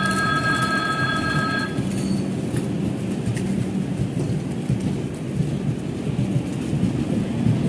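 Passenger coaches of a departing express train rolling past along the platform, their wheels rumbling on the rails. A steady horn with several notes sounds for about the first two seconds.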